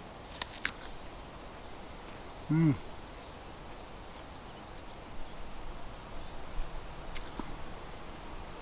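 A man's short hummed "mm" of enjoyment while tasting food, falling in pitch, about two and a half seconds in, over quiet outdoor background with a few faint clicks near the start and again about seven seconds in.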